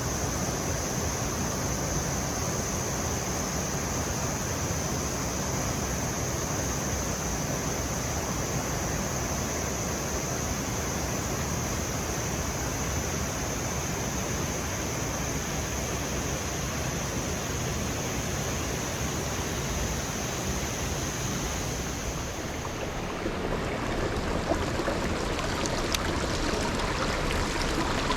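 Rushing mountain stream water, a steady wash of noise, with a thin, steady high-pitched whine over it that stops about 23 seconds in.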